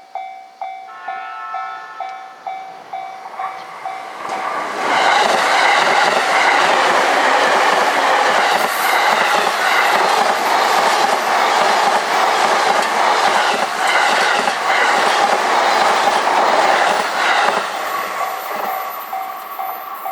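A level-crossing bell rings about twice a second, then a train passes close by at speed, its wheels clattering over the rail joints for about thirteen seconds and drowning the bell, which is heard again as the train clears near the end.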